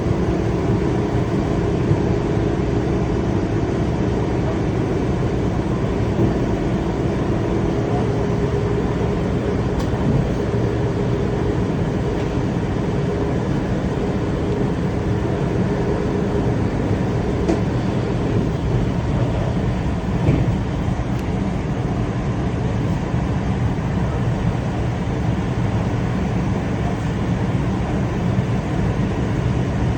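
A train in motion: a steady running rumble, with a low whine that fades about halfway through.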